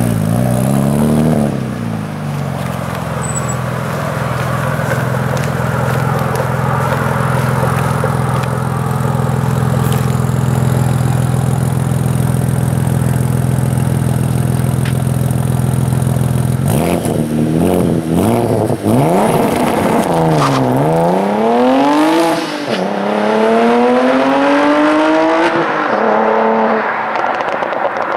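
Audi B5 S4's twin-turbo V6 idling steadily while staged, then launching hard. Its pitch climbs through the gears with three upshifts, each a sudden drop in pitch, and the sound thins as the car pulls away.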